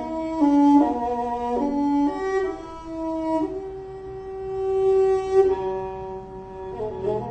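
Slow Thai classical instrumental music: a khlui flute and bowed saw fiddles play a smooth melody of long held notes, with one long note swelling in the middle.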